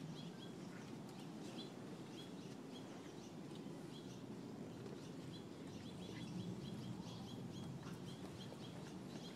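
Quiet outdoor ambience, a steady low hum of distant noise, with a small bird chirping over and over in short high notes.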